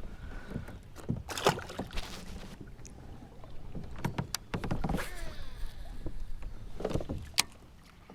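Handling noise aboard a fishing kayak: scattered knocks and clicks of gear and hands against the hull, with a few brief swishes.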